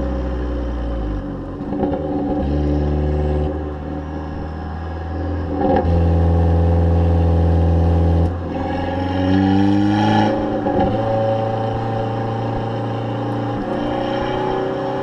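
Abarth 500's turbocharged 1.4-litre four-cylinder engine revving through its exhaust. The revs step up and drop several times and are held steady in between, with a rising sweep about nine seconds in before they fall back.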